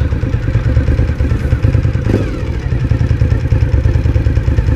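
Motorcycle engine running at low road speed, heard from a helmet-mounted camera, with a steady low pulsing throb.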